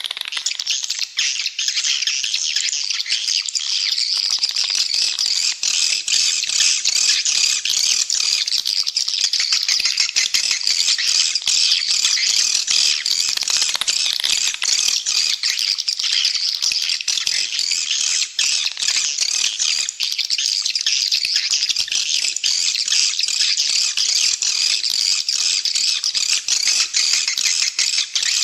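Swiftlet calling recording: a dense, continuous chorus of rapid, high chirps and twitters. This is the lure call played in swiftlet houses to draw the birds in to roost and nest.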